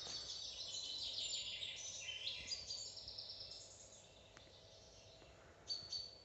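A chorus of several songbirds singing and twittering, probably a forest-bird recording played in the museum hall. It is busiest in the first three seconds, thins out, and ends with a short burst of chirps near the end.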